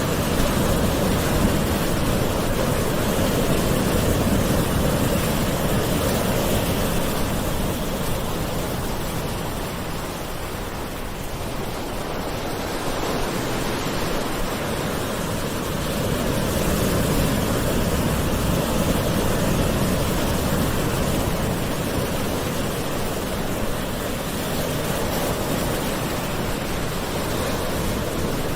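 Gentle ocean waves washing ashore in a continuous rush of surf that swells and ebbs slowly, easing off about ten seconds in and building again a few seconds later.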